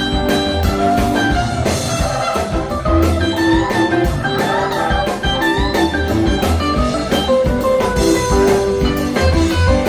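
Live rock band playing an instrumental passage: an electric guitar lead over bass and drum kit.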